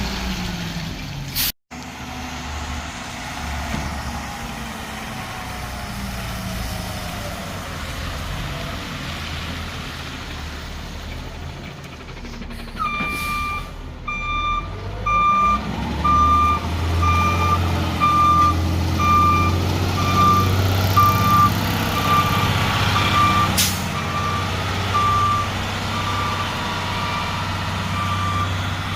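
Garbage truck engine running, its revs rising and falling. About thirteen seconds in, the reversing alarm starts beeping steadily, a little more than one beep a second, and the engine grows louder as the truck backs up.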